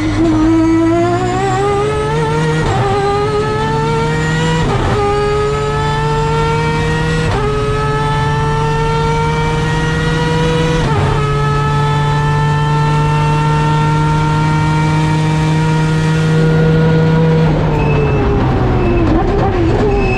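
Mazda RX7's three-rotor, peripheral-port 20B rotary engine accelerating hard, the pitch climbing through four quick upshifts. It then holds a near-steady high note for several seconds. Near the end it lifts off and the note falls and wavers as the car slows.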